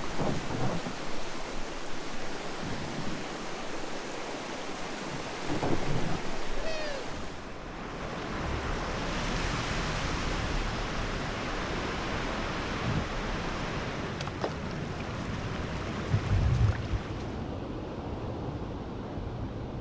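Steady rushing of a waterfall or rapids, with gusts of wind buffeting the microphone; the sound changes abruptly about seven seconds in.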